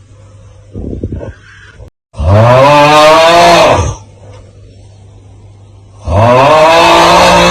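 The 'Aauuggh' meme sound on a loop: a loud, drawn-out strained groaning yell whose pitch rises and then falls, lasting under two seconds and repeating about every four seconds. One full yell sounds and the next begins near the end, with a short crackle and a low hum in the gaps between.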